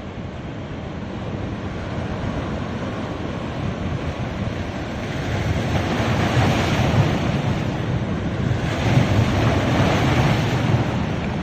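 Ocean surf breaking on a beach: a steady wash of water with two waves swelling up and breaking, about six and nine seconds in.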